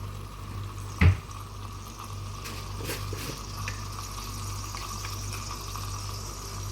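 Kitchen sounds from cooking on the stove: a steady hiss of liquid over a low hum, with a single sharp knock about a second in.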